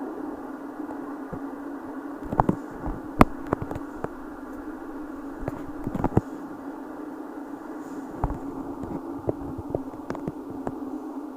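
Steady hum of a moving high-speed train heard from inside the carriage, with occasional sharp knocks and clicks, the loudest about three seconds in.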